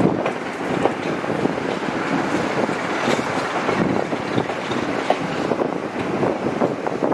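Railway coaches running along the track, wheels rumbling on the rails with irregular clicks and knocks, and wind buffeting the microphone held out of the carriage window.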